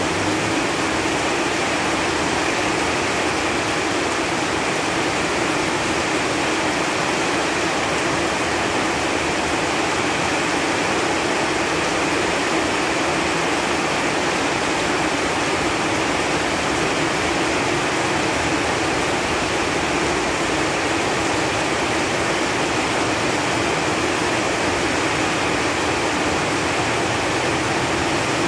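Steady rain falling on leaves, a dense even patter of drops with no breaks.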